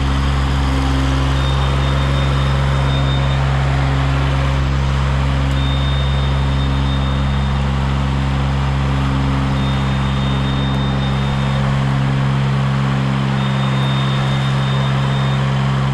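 CMC 90-foot tracked aerial lift running steadily as it travels on its tracks. A high thin tone comes and goes every couple of seconds over the engine.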